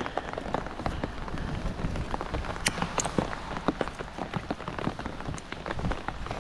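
Heavy rain falling, heard as a dense run of small, irregular taps of drops landing close to the microphone, with a few sharper clicks among them.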